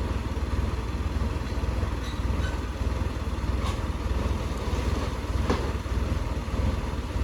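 Heavy earthmoving machine's diesel engine running steadily, deep and low, with a couple of faint ticks near the middle.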